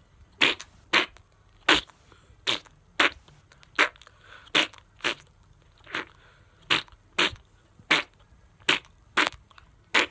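A series of short fart noises made with the mouth, blown out one after another at roughly two a second.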